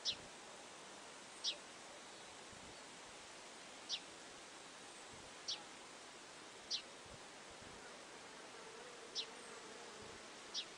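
A small bird's high, thin call note, a short downward-sliding chirp, repeated seven times at uneven gaps of one to two and a half seconds over a steady faint hiss. A faint insect-like buzz sits beneath it.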